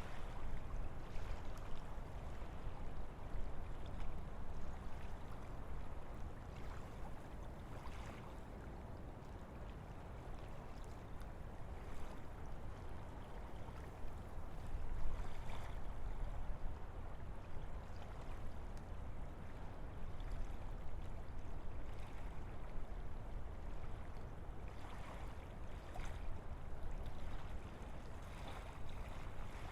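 Wind rushing steadily through forest trees, with a low rumble underneath and gentle swells in strength, louder near the start and again about halfway through.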